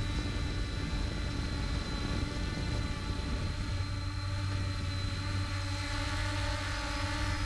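An engine running steadily at a fixed pitch, a constant hum with no change in speed.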